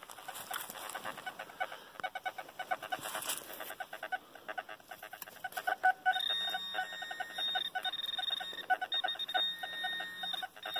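Metal detector and pinpointer sounding off over a large iron target: a rapid run of pulsing beeps, then about six seconds in a steady high-pitched tone that breaks off and resumes a few times.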